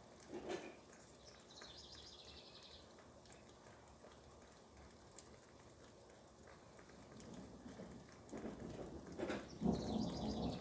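Steady light rain, with a bird giving a rapid trill twice, once early and once near the end. Low rolling thunder builds over the last few seconds and becomes the loudest sound.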